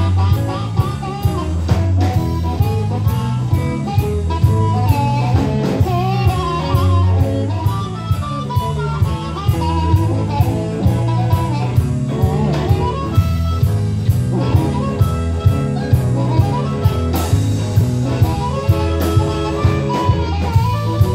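Live band playing a blues-style instrumental passage: guitar lead with bending notes over bass and a steady drum beat of about two strokes a second.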